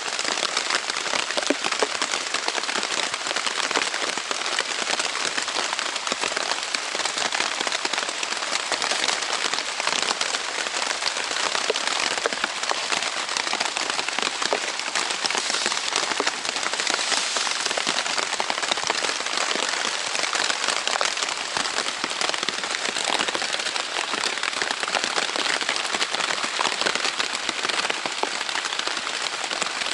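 Heavy rain falling on a Zpacks Plexamid tent's Dyneema fabric: a dense, steady patter of countless drops that keeps up without a break.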